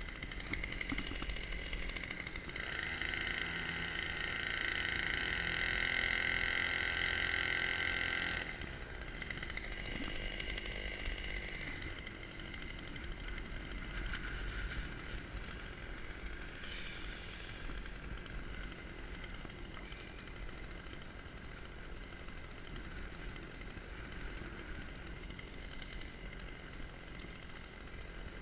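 Small engine running, speeding up about two seconds in and running harder for about six seconds, then easing back to a steady lower speed.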